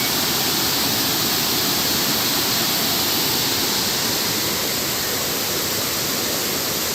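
Steady rush of water pouring over a waterfall, an even hiss with no breaks.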